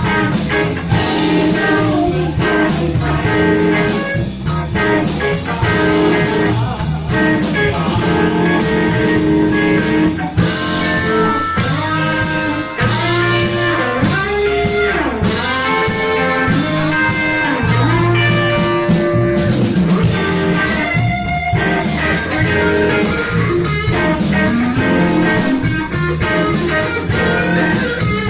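Live blues band playing an instrumental break: a lead guitar solo with bending notes over a drum kit.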